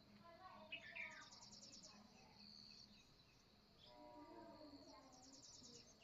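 Faint outdoor birdsong: scattered chirps and calls, with a quick high rattling trill about a second in and again near the end, over a faint steady high insect-like tone.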